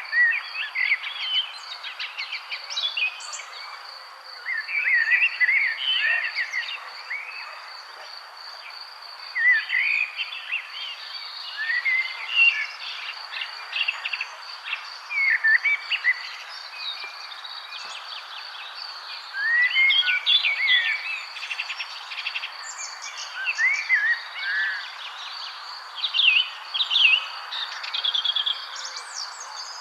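Several songbirds singing in short, repeated phrases, one after another, over a steady high insect trill and a constant hiss of outdoor background noise.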